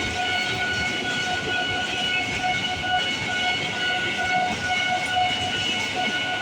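A train passing at a level crossing: steady rumble of the train, with several steady high tones held above it the whole time.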